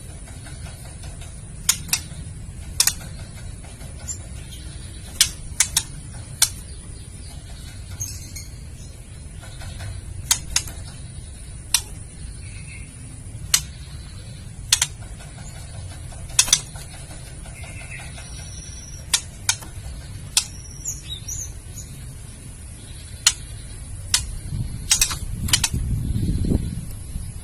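Female white-rumped shama giving its kretekan: sharp, irregular clicking calls, sometimes in pairs, with a few short high notes about twenty seconds in. The call is the kind used to stir a male shama's aggression and breeding drive. A louder low rumble comes near the end.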